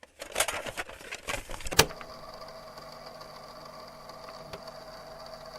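A quick run of sharp clicks and knocks, the loudest about two seconds in, followed by a steady low machine hum.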